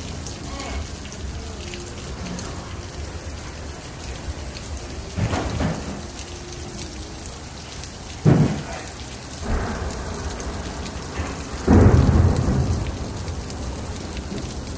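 Heavy rain falling steadily on a window during a storm. Several loud, low rumbling swells come through, one starting suddenly about eight seconds in and the loudest about twelve seconds in.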